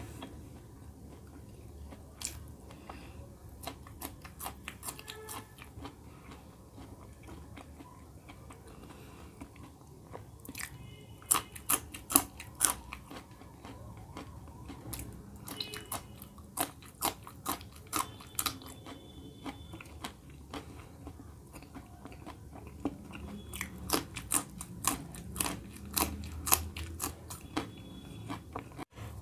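Mouth sounds of eating fried samosas and raw green chillies: chewing with sharp crunches, which come in quick runs about a third of the way in and again near the end.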